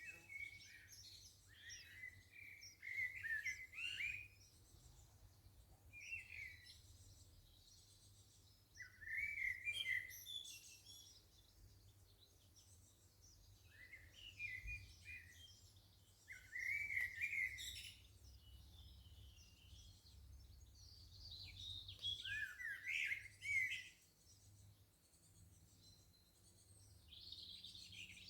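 Garden songbirds singing: about six bouts of quick, twittering phrases with short pauses between them.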